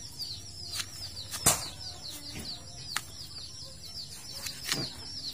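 Small birds chirping steadily in the background, a quick run of short, high, falling chirps. A few sharp knocks break in, the loudest about a second and a half in.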